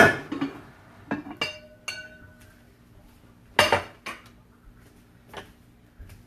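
Clinks and knocks of kitchenware being handled: the Rock Crock cooker and its lid moved and set down. A few separate sharp clinks, some with a short ringing tone, the loudest about three and a half seconds in.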